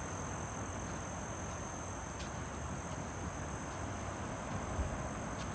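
A steady high-pitched chorus of insects, crickets by their sound, over an even low rushing background noise.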